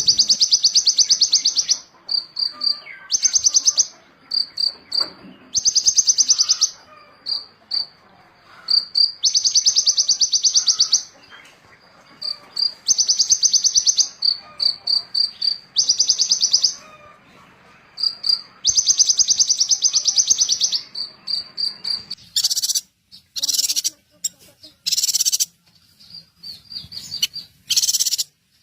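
Small songbird calling over and over: buzzy, high trills of a second or two, alternating with short single high notes. About 22 s in, the song changes to sharper, separate bursts, likely a different bird in the compilation.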